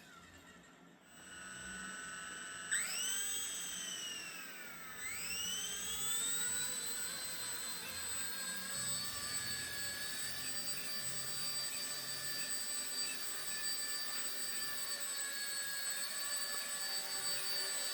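Micro RC helicopter's motor spooling up with a high whine: it rises sharply, dips about five seconds in, then climbs again and holds steady as the rotor comes up to speed.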